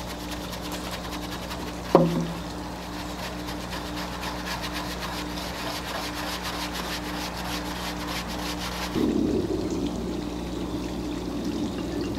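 A brush scrubbing a dirty furnace blower wheel and housing that has been soaked in cleaner, in quick rasping strokes, with one sharp knock about two seconds in.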